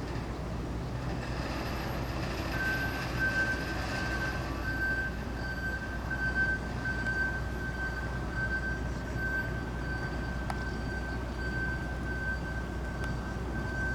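A heavy vehicle's engine running steadily, with an electronic beeper starting about two and a half seconds in and repeating at one high pitch, roughly two beeps a second.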